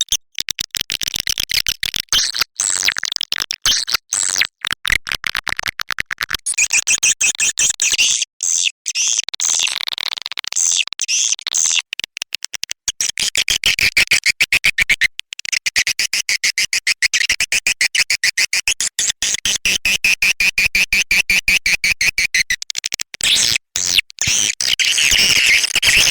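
Swiftlet lure call recording: dense, rapid trains of high-pitched chirps and twitters, played as a loop with abrupt cuts, of the kind used to draw swiftlets into a nesting house.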